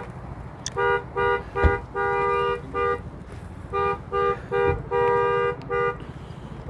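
A horn with two fixed notes sounding together, honked in a repeating rhythm of about three short blasts, one long and one short, played twice. Underneath is a steady low rumble, with a couple of dull thumps.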